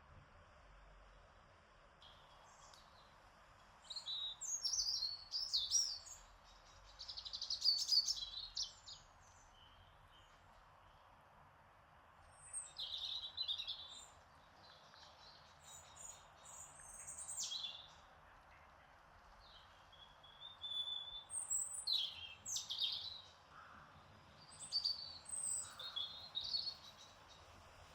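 Songbirds singing in short bursts of high, quickly warbling phrases, about six bouts with pauses between, over a faint steady background hiss.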